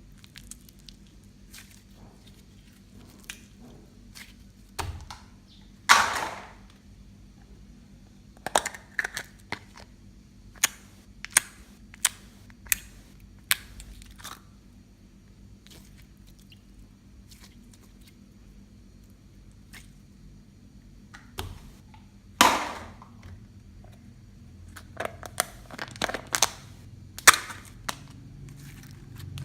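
Homemade slime being worked by hand: irregular sticky pops and crackles as it is stretched and pressed, with two longer squelches, one about six seconds in and one past twenty seconds.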